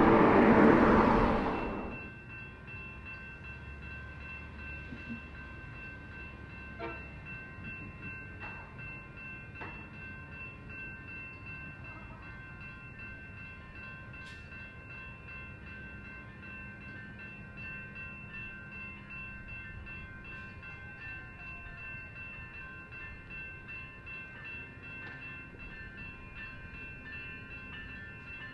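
A train passing close by, loud for about the first two seconds, then dropping away quickly. A much quieter steady rail sound with a few faint high tones runs on after it.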